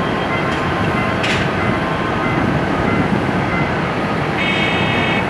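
Train running on rails: a steady rumble with a sharp clack of wheels over a rail joint about a second in. A high ringing tone comes in near the end.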